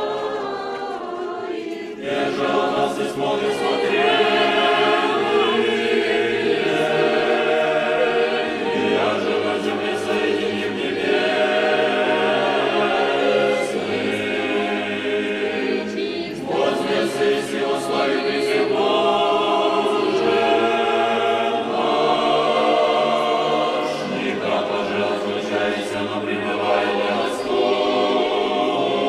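Church choir singing a hymn in long phrases, with brief breaks between them.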